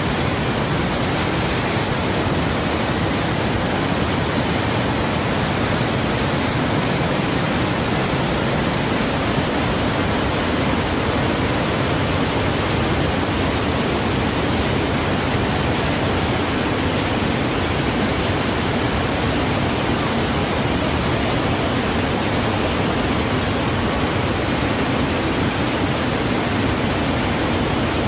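Steady, loud rush of water pouring over a dam wall.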